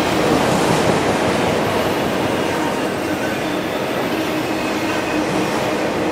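Empty autorack freight cars rolling past at speed: a steady, loud noise of steel wheels on rail, with a few faint high tones running through it.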